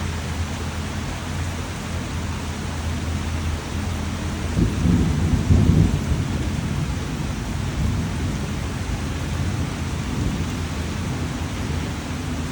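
Steady rain falling, with a low rumble of thunder swelling up about five seconds in and dying away over a couple of seconds.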